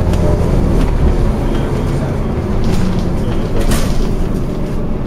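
Scania OmniCity double-decker bus running with a steady low diesel engine rumble and small knocks, and one short hiss about two-thirds of the way through.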